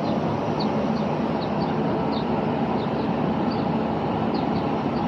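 Copeland scroll compressor of a chiller running with a steady, dense machine noise, with faint short high chirps scattered irregularly over it.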